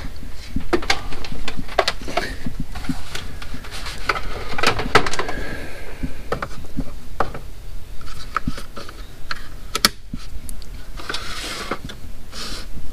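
Irregular clicks, knocks and light clatter of objects being handled and slid around on booth shelves, over a steady low hum.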